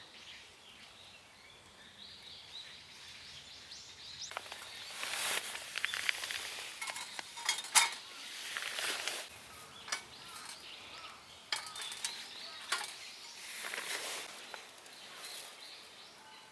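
Metal grill parts handled and set down: light metallic clinks, clatters and knocks at irregular intervals, with a sharper knock about eight seconds in.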